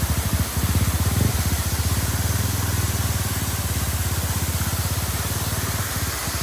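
Enduro dirt bike engine idling steadily under a steady hiss.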